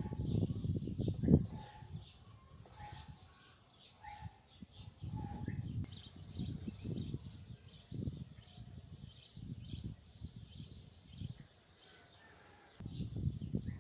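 Small birds chirping in quick, repeated high notes, thickest through the middle. Under them runs a low rumbling noise on the microphone, loudest at the start, with a thump just over a second in.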